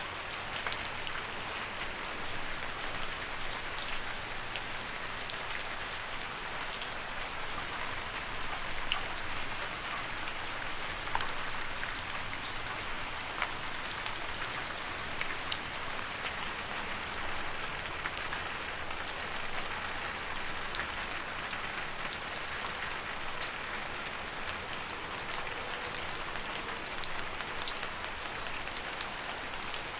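Steady rain falling and pattering on a surface, a constant hiss with many small individual drop ticks scattered through it.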